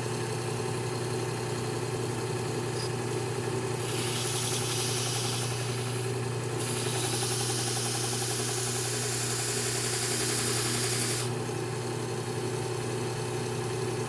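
Belt grinder motor running steadily. A pruner blade is held against a fine 3M Trizact belt twice, giving a hissing grind from about four to five and a half seconds in and again from about six and a half to eleven seconds in.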